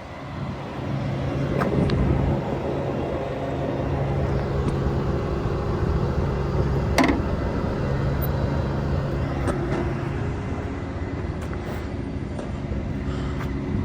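Volvo FH 420 truck's 13-litre inline-six diesel engine running steadily, growing louder in the first second, with a single sharp click about seven seconds in.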